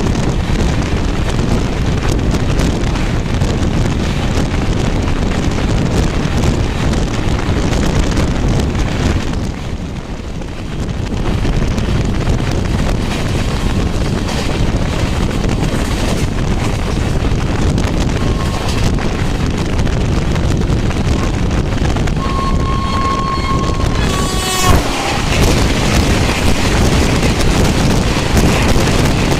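Passenger train running at speed, heard from aboard a coach: a steady loud rumble of wheels on rail mixed with rushing wind, dipping briefly about a third of the way through. Later a short high tone sounds twice, the second time for about two seconds, followed by a sharp crack.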